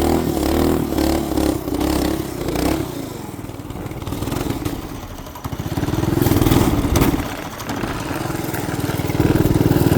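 A 212cc single-cylinder small engine running unevenly, its speed dropping off in the middle and revving up about six seconds in and again near the end. It sounds unhappy after the bike tipped over in the snow and the low-oil sensor cut it out.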